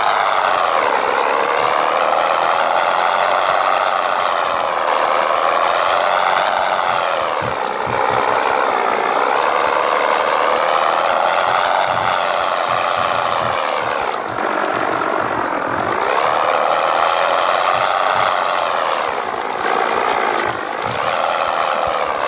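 Scania 113 truck's diesel engine pulling hard, its pitch climbing and then dropping back several times as it works up through the gears.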